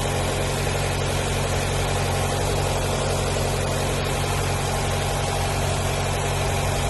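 Nissan car engine idling steadily under an open hood after a throttle body replacement. It has a persistent high idle that the owner puts at around 2000 rpm.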